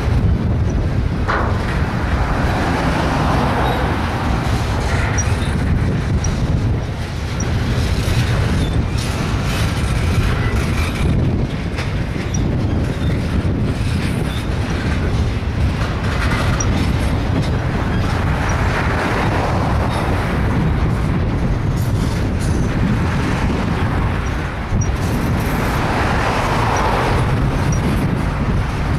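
Double-stack intermodal freight train's loaded well cars rolling past close by: a steady rumble of steel wheels on rail that swells a little now and then as cars go by.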